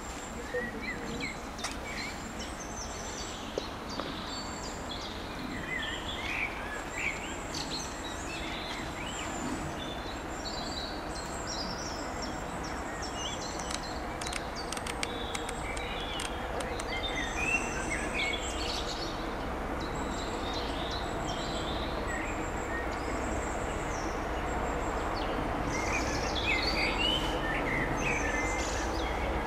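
Birds chirping and singing over the low rumble of an approaching train, which grows steadily louder. The train is led by a Class 73 electro-diesel, with a Bulleid Pacific steam locomotive at the rear.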